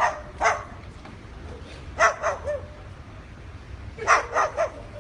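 Cockatoo mimicking a dog's bark: short barks in quick clusters, two at the start, then three about two seconds in and three more about four seconds in.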